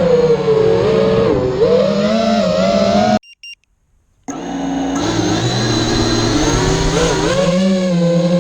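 A 210-size FPV racing quadcopter's brushless motors whine, their pitch rising and falling with the throttle. Under the whine runs a steady low droning tone, the strange resonance-like noise that the owner traced to a faulty ESC. About three seconds in, the sound cuts out for about a second and then resumes.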